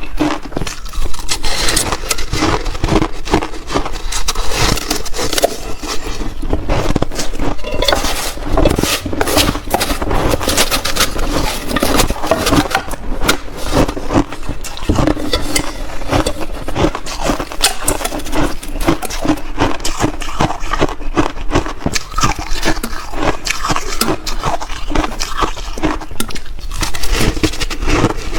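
Close-miked crunching of shaved ice being chewed in big bites: a dense, irregular run of sharp crunches and crackles.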